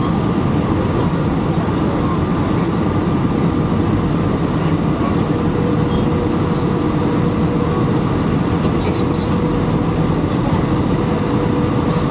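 Airbus A319 cabin noise in flight: a steady roar of engines and airflow with a faint steady whine.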